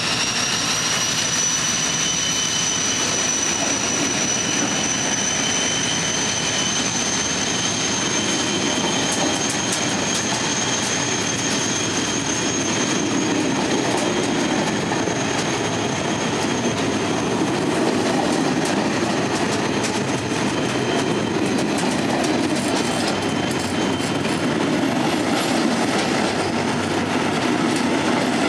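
Loaded log wagons of a freight train rolling past as it pulls away, with a low rumble and wheels clicking over rail joints. A thin high whine rises in pitch over the first few seconds, then holds steady.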